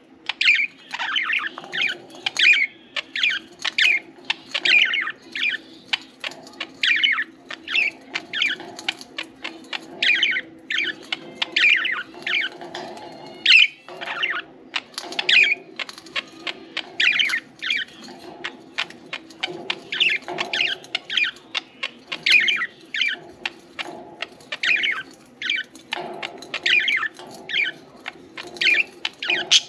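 Budgerigars chirping and chattering continuously in quick, short calls, with a steady low hum underneath.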